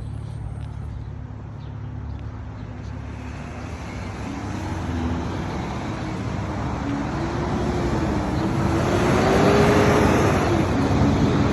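Road traffic: a motor vehicle's engine and tyre noise growing louder toward the end as it approaches, with a wavering engine note over a steady low rumble.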